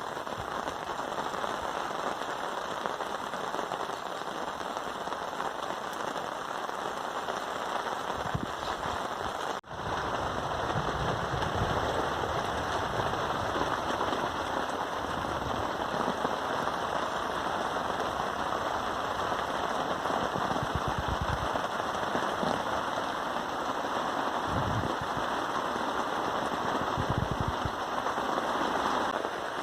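Steady rain falling and pattering, with a brief dropout about ten seconds in. After it come intermittent low rumbles of wind gusting on the microphone.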